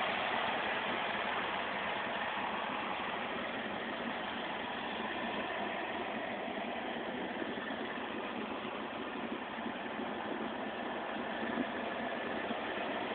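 2011 Ford Mustang GT's 5.0 Coyote V8 idling steadily.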